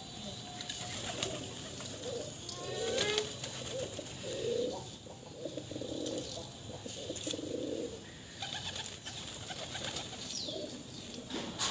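Pigeons cooing, a series of low, soft coos repeating every second or two.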